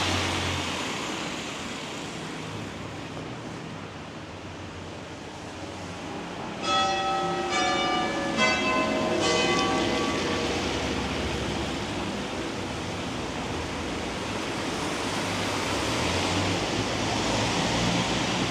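Church bells struck about five times in quick succession on different notes, each ringing on briefly. Underneath is a steady hiss of rain and wet road, with traffic swelling at the start and again near the end.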